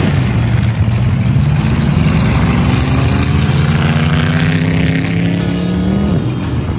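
Vintage race car engine pulling hard down the drag strip, its pitch dropping at a gear change right at the start, then climbing steadily for about six seconds before falling away sharply as the driver lifts off.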